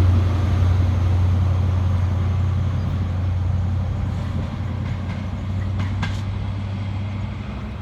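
Class 43 HST power car diesel engine running with a steady deep drone that fades gradually, with a few faint clicks about five to six seconds in.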